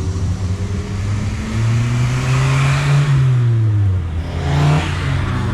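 Car engine accelerating: its pitch climbs for about a second and a half, then drops about three seconds in. A short rev follows near the end.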